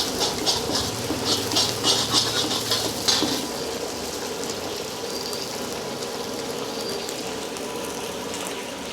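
Metal ladle clanging and scraping against a wok in quick strokes for about the first three seconds as food is stir-fried, then a steady sizzling hiss of frying.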